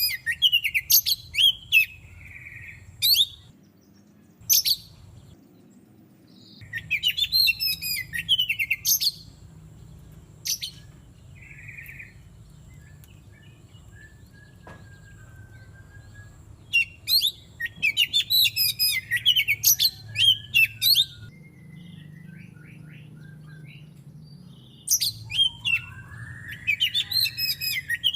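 Oriental magpie-robin (kacer) singing in loud bouts of rapid, varied, high chattering phrases, separated by pauses of a few seconds.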